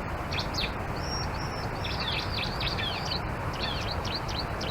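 Bar-winged prinia (ciblek) song: a quick run of high chirps and short falling notes, with one brief held whistle about a second in, over a steady background hiss.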